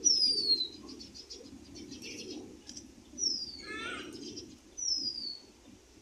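Birds calling: three high, clear whistles that each slide down in pitch, one at the start, one just after three seconds and one near five seconds, with a short wavering call around four seconds.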